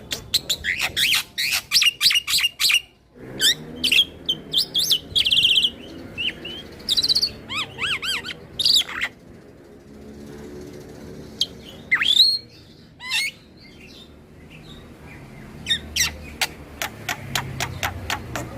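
Black-winged starling (jalak putih) singing: rapid runs of sharp chips and clicks mixed with whistled, bending notes, in bursts broken by short pauses.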